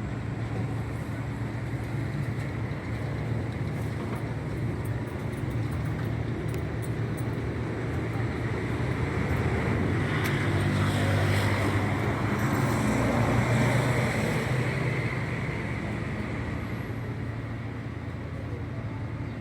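Steady running noise of a vehicle, with a low engine hum. It grows louder about halfway through and eases off again near the end.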